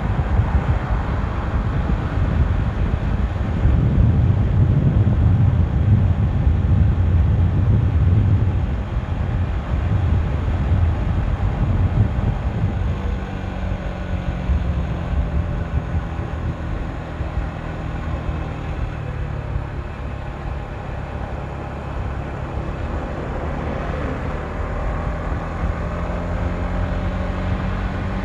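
Motorcycle being ridden at speed: wind buffeting the microphone over the engine's drone, the wind heaviest in the first few seconds. From about halfway through, a steady engine tone comes through, rising and falling slightly.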